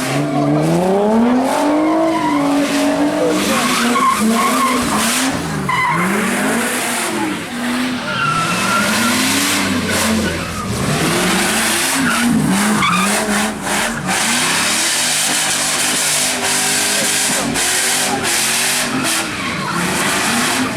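A car doing donuts on wet pavement: its engine revs up and down over and over, rising and falling every second or two, with the tyres skidding and squealing.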